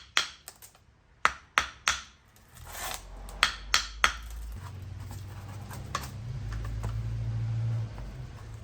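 Metal starter parts and tools clinking and knocking on a workbench during disassembly, a series of sharp clacks. From about halfway through a steady low hum comes in, louder for a second or two near the end.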